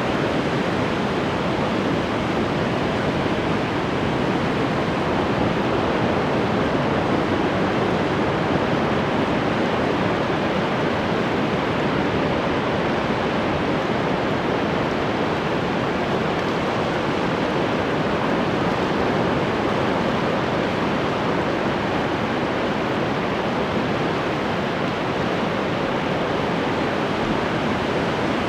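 Ocean waves washing on the shore in a steady, unbroken hiss of surf.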